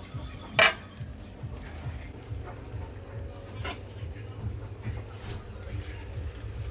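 Steady chirring of crickets, a high insect chorus. A sharp knock comes about half a second in and a lighter one near four seconds.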